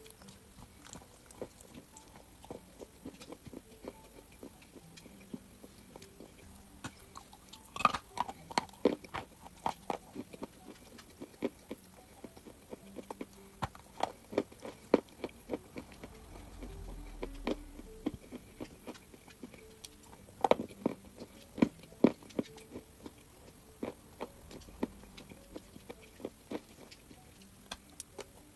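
Crunchy chalk being bitten and chewed close to the microphone: sharp, irregular crunches that come in louder, denser runs about a third of the way in and again about two-thirds through.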